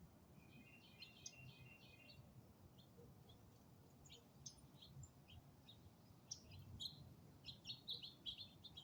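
Small birds chirping faintly, a quick trill about half a second in and chirps coming thicker near the end.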